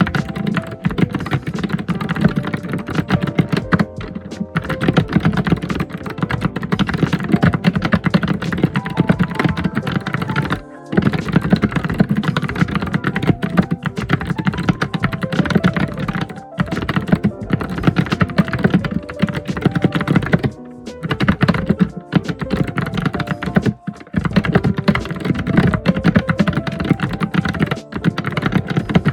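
Computer keyboard typed fast and hard, a dense, continuous clatter of key clicks broken by a few brief pauses.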